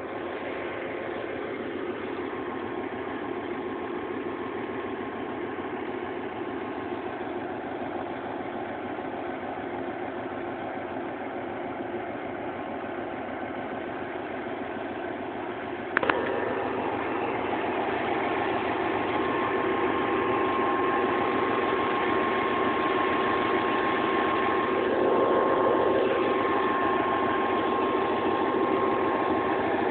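Passenger train's diesel engine and coaches running with a steady hum, which gets louder after a sharp click about halfway through.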